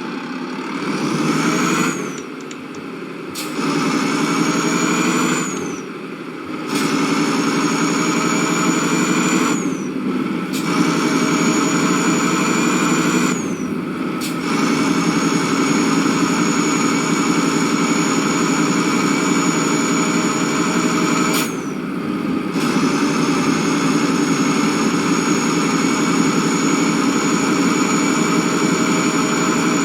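Motor vehicle engine running under way, with a high whine that climbs at the start of each stretch and then holds. The sound dips briefly every few seconds, at first often and then at longer gaps.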